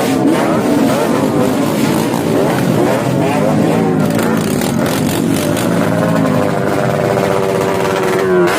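Motorcycle engines revving through loud aftermarket exhausts, the pitch climbing and dropping repeatedly with several revs overlapping.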